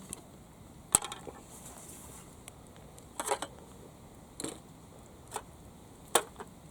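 Five separate sharp clicks and knocks spread over several seconds, like hard objects being handled and set down; the sharpest come about a second in and near the end.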